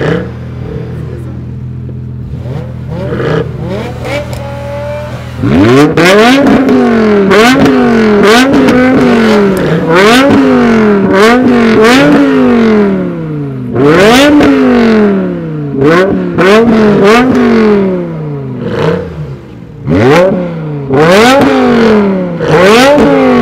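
Performance car engines, BMW M6 V10s and a Mercedes C63 AMG V8, idling and then, from about five seconds in, revved hard again and again: about fifteen quick blips that rise sharply in pitch and fall back to idle, several in quick succession, some overlapping.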